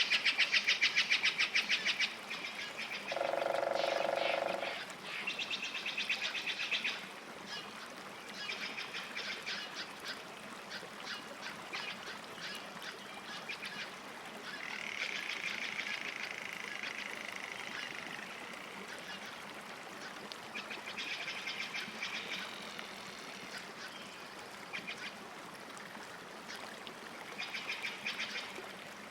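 Lakeside wildlife calling: bursts of rapid, high-pitched trilling recur every few seconds over a light background hiss, with one lower, longer call about three seconds in.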